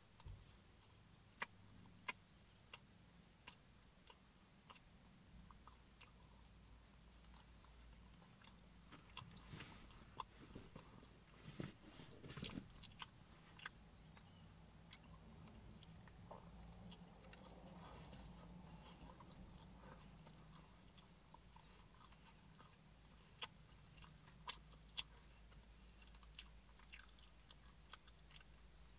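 A person faintly chewing and biting pizza, with sharp scattered mouth clicks and smacks over a low steady hum.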